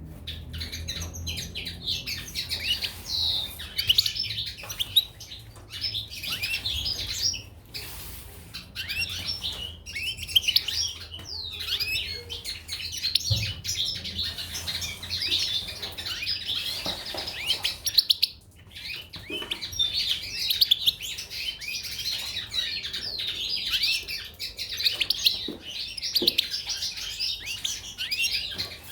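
Goldfinches and canaries chirping and twittering, many birds at once in a dense, continuous chatter, with scattered short clicks and a brief lull about two-thirds of the way through.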